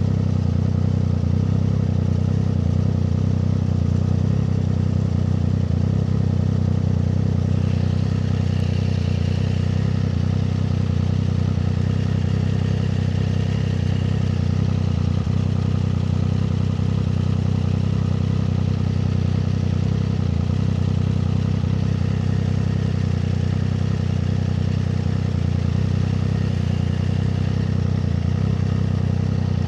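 Triumph Street Triple 765 RS inline three-cylinder engine running at a steady, even engine speed, with no revving up or down.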